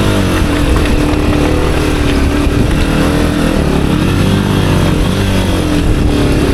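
Honda CRF250F single-cylinder four-stroke dirt bike engine working under load on a steep rocky hill climb, its revs rising and falling several times as the throttle is worked.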